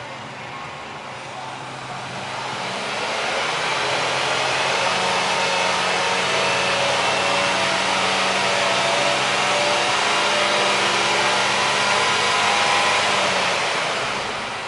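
Nissan X-Trail 20X's 2.0-litre four-cylinder petrol engine revved up from idle about two seconds in, held at a steady raised speed for about ten seconds, then dropping back toward idle near the end.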